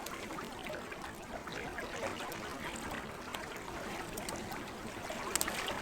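Campfire crackling with scattered small pops, a couple of sharper pops near the end, over the steady lapping and trickling of lake water.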